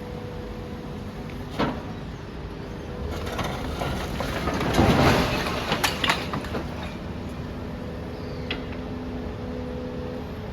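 Demolition machinery running with a steady hum. A sharp knock comes about one and a half seconds in, then a few seconds of crunching and crashing as rubble comes down, loudest about halfway through and ending in several sharp cracks.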